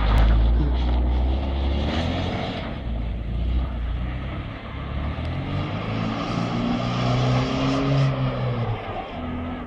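Volvo 940 estate's engine revving hard while the car spins donuts on snow, its rear wheels spinning. The engine pitch rises and falls as the throttle is worked, with a steady rush of spinning tyres and thrown snow underneath.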